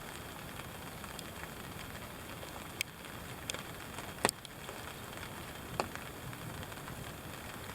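Steady rain falling on a ground blind, an even hiss with a few louder drops striking close by, about three in all, the sharpest just past the middle.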